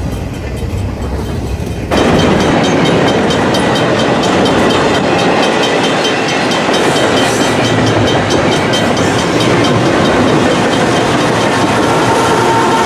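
Double-stack intermodal freight train rolling past: steel wheels clacking over the rails with a steady rumble from the cars. About two seconds in it suddenly becomes louder and closer.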